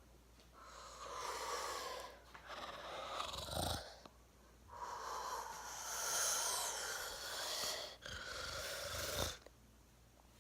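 Snoring: about four long, drawn-out breaths in a row, each one to three seconds long, with short breaks between them.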